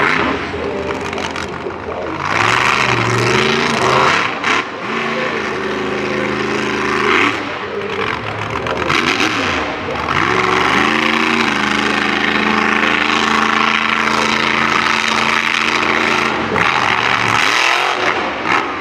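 Monster truck engine revving hard again and again, the pitch climbing and dropping as the driver works the throttle through a two-wheel skills run.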